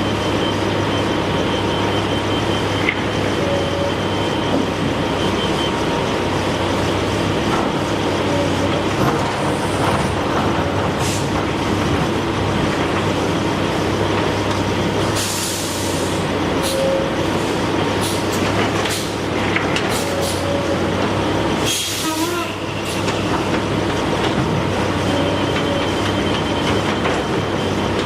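A heavy engine running steadily with a low hum, broken by short spurts of hissing air, loudest about halfway through and again a few seconds later.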